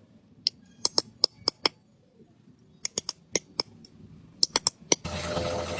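A series of sharp, short clicks, about a dozen in three quick clusters, with near quiet between them. About five seconds in, the sound changes abruptly to a steady noisy background with a faint hum.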